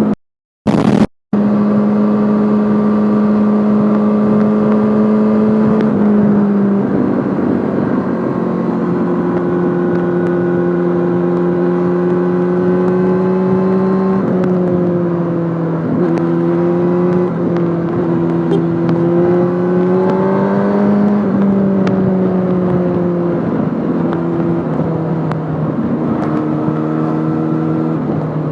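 Yamaha Fazer 600's inline-four engine running through a handmade exhaust while riding, its note holding fairly steady and rising gently twice before easing off. The sound cuts out briefly twice in the first second or so.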